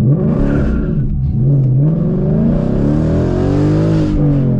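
Tuned 2017 Ford Mustang GT's 5.0-litre V8, with aftermarket exhaust and cold air intake, accelerating hard. The engine note climbs and drops twice early on, then makes one long climbing pull that falls away near the end.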